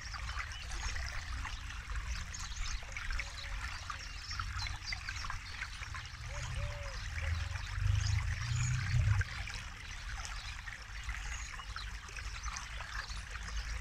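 Forest river flowing and trickling over stones in a steady splashing hiss. A bird gives a short, low, arched call a few times, and a low rumble swells for a few seconds past the middle.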